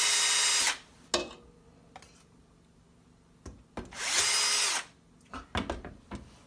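Electric drill spinning a whisk attachment to whip egg whites, stopping about half a second in. A sharp click follows, then a second short run of the drill, and a few light knocks near the end.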